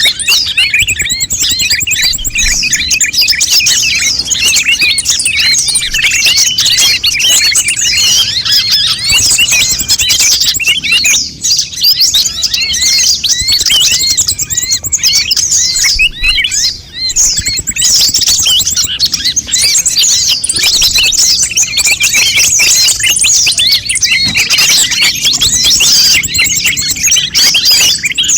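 Konin birds chirping in a busy, nonstop stream of quick high overlapping calls, the noisy 'ribut' song used as a lure and master recording for konin. There are two brief lulls, about 11 and 17 seconds in.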